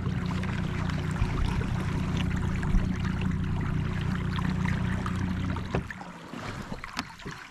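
A kayak's motor hums steadily with water rushing along the hull, then shuts off about six seconds in, leaving faint drips and small splashes.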